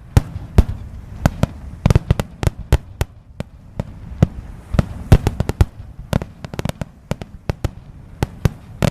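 Fireworks finale: shells bursting in quick, irregular succession, several sharp bangs a second with short low rumbles between.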